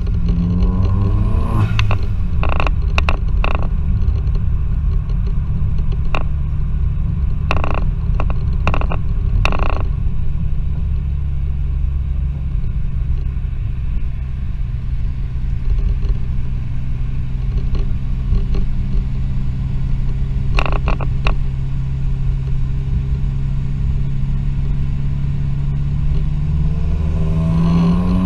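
Remapped Vauxhall Z20LET 2.0 turbocharged four-cylinder engine through a 2.75-inch turbo-back exhaust, heard from inside the van's cab. The revs climb at the start. Scattered sharp pops and bangs from the added overrun map follow over the next several seconds and come again about two-thirds of the way through, with a steady drone while cruising in between. The revs climb again near the end.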